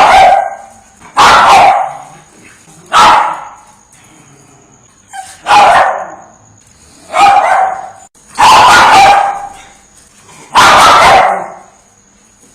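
A dog barking repeatedly, single loud barks about every one and a half to two seconds, with a longer run of barking a little past the middle.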